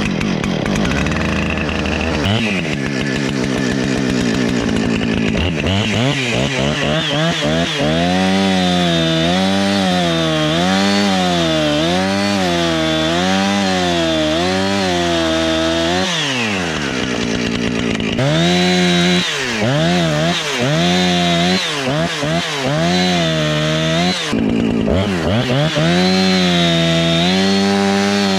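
Husqvarna 455 Rancher two-stroke chainsaw just after a cold start, running at a steady idle at first. It is then revved up and down over and over, about once a second, settling back to idle around the middle before revving again.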